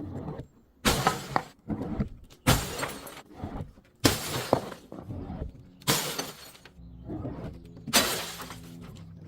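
Glass bottles smashing: about five loud shattering crashes spaced roughly one and a half to two seconds apart, each followed by smaller crunches and tinkles of the broken pieces.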